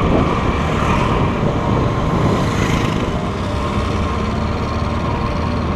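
Motor scooter being ridden: its engine running steadily under a constant rush of road and wind noise.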